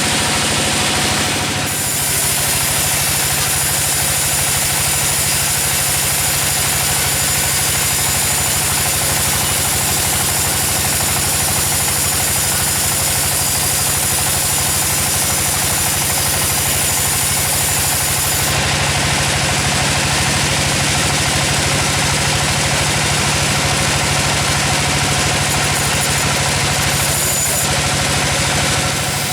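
Sawmill engine running steadily, with a low, even pulsing. The sound shifts abruptly about two seconds in, again past the middle and near the end.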